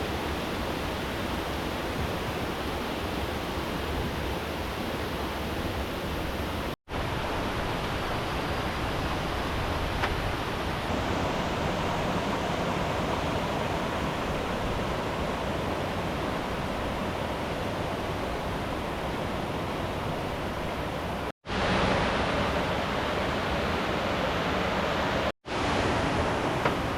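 Steady rush of flowing river water, cutting out abruptly three times for a split second.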